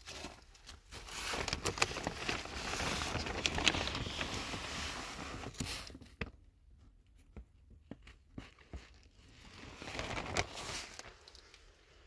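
Rustling, crinkling handling noise with scattered clicks, in two stretches: a longer one in the first half and a shorter one near the end, with little in between.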